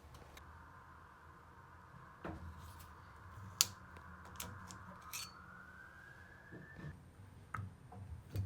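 Water hissing through plumbing; the hiss rises slightly in pitch and then cuts off about seven seconds in. Several sharp clicks and knocks sound over it, the loudest about three and a half seconds in.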